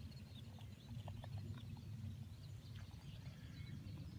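Small birds chirping: many short, high calls over a steady low rumble.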